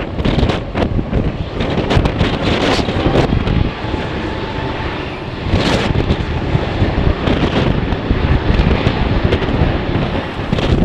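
Strong gusty wind buffeting the microphone: a heavy low rumble that surges and dips irregularly, with short crackling blasts.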